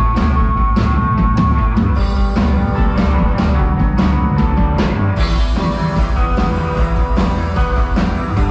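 Live rock band playing an instrumental passage in a psychedelic rock style: drum kit and guitar over heavy bass. About five and a half seconds in the sound thickens, with a steady wash filling the treble.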